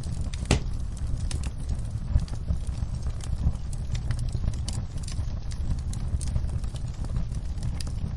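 Wood fire crackling: irregular sharp pops and snaps over a steady low rumble of flames, with one louder pop about half a second in.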